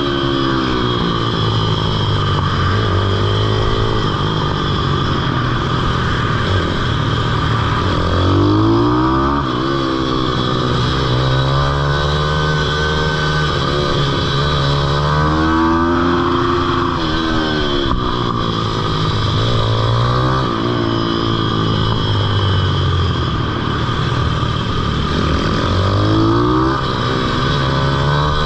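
Pitbike's single-cylinder four-stroke engine at full ride, revving up hard on the straights and dropping back off the throttle into corners, over and over, every few seconds.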